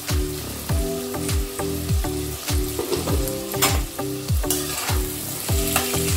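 Egg, potato and onion stir-frying in a pan: a steady sizzle with scrapes of a metal spatula against the pan, over background music with a regular beat.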